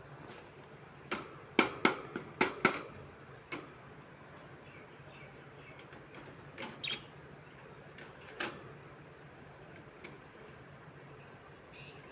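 A series of sharp clicks and taps, bunched about a second in and again later, with faint short chirps from baby parrots. A steady low hum runs underneath.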